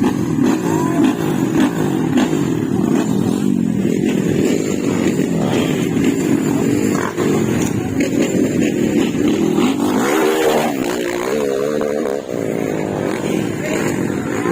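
Motocross dirt bike engines revving, several at once, their pitch constantly rising and falling; one bike's revving stands out about ten seconds in.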